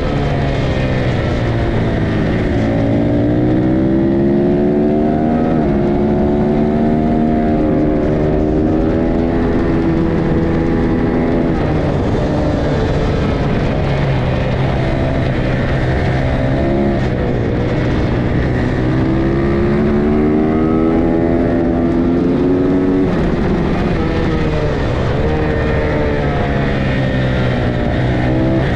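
Lightweight race motorcycle engines running hard and loud, their pitch climbing, holding high for several seconds, then dropping, over and over, as the throttle is opened and closed around the track.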